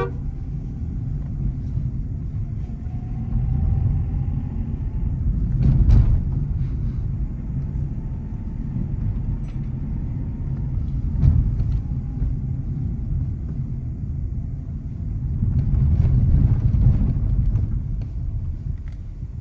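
Low, steady rumble of a Nissan Magnite car driving, rising and falling in loudness, with two sharp knocks about six and eleven seconds in.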